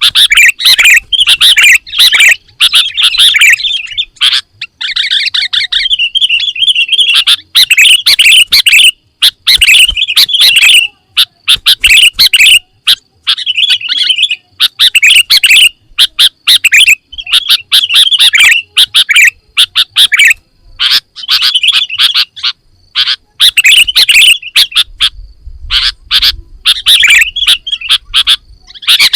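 Sooty-headed bulbul (kutilang) singing a loud, busy song of quick chirping phrases, one after another with short breaks between them.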